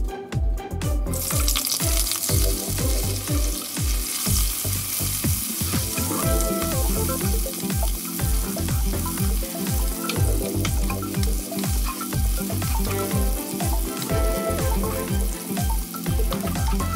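Sliced onions sizzling in hot oil in a wok, the hiss starting about a second in as they go into the pan and staying steady while they are stirred with a wooden spatula. Background music with a steady bass beat plays throughout.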